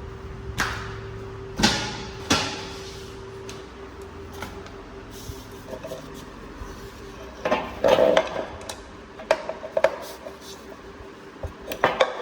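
Hard objects clattering and knocking: a few sharp impacts in irregular clusters, over a faint steady hum.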